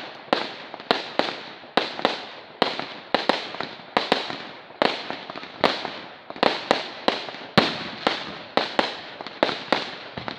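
Fireworks display: an irregular, rapid run of sharp bangs and crackles, several a second, each with a short fading echo.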